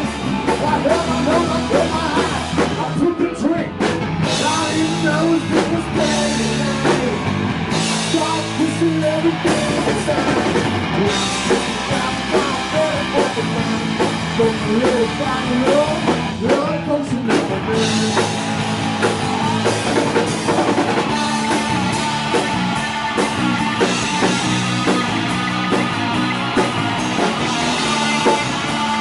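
Live rock band playing with drums, electric guitar and singing.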